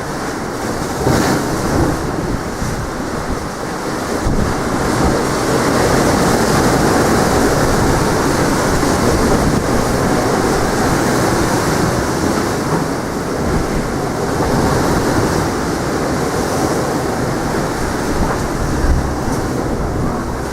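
Strong wind buffeting the microphone over the rush of sea waves breaking on the shore, a loud, continuous noise that swells and eases.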